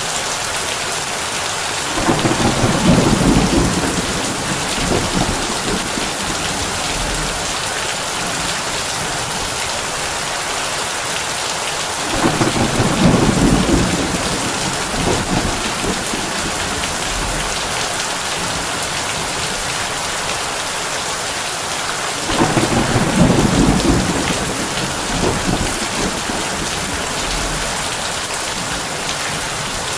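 Heavy rain on a tin roof, a steady hiss, with three rolls of thunder about ten seconds apart, each starting suddenly and rumbling for a few seconds.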